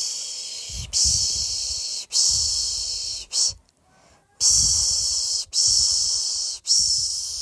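Rhythmic shushing ("shhh") to lull a baby to sleep: three long hisses of about a second each, then a short one, a brief pause, and the pattern starts again.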